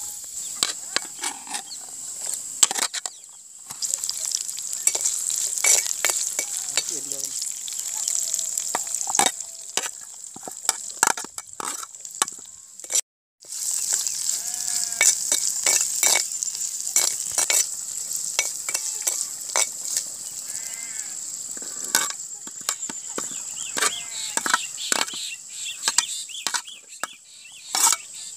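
Hot oil sizzling in a clay pot as cumin seeds and chopped small onions fry, with a metal spoon scraping and stirring against the pot in many quick clicks. There is a steady hiss throughout.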